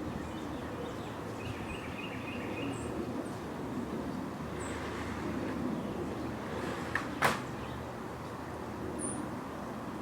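Outdoor yard ambience: a steady low rumble, a few faint high chirps, and a single sharp click or snap about seven seconds in.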